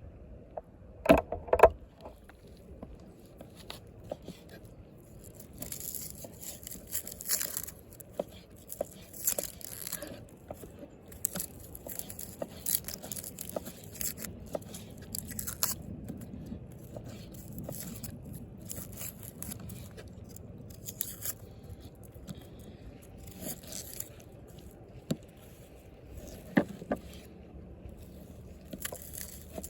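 Hands-on food preparation: irregular scraping, cutting and tearing noises, with a few sharp knocks about a second in.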